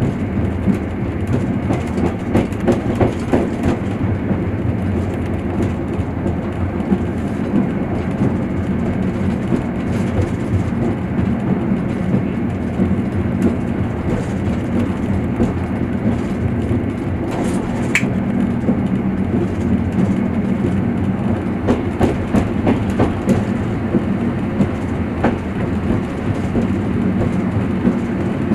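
Train running along the rails, heard from on board: a steady low rumble with the clatter and knocks of the wheels over rail joints. A brief high squeak comes partway through.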